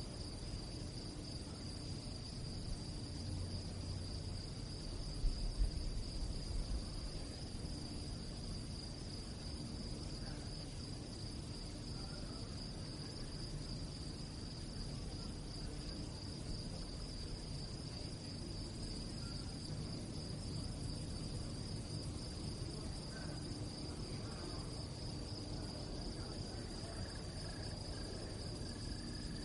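Crickets chirping in a steady, continuous high trill, with a brief low rumble about five seconds in.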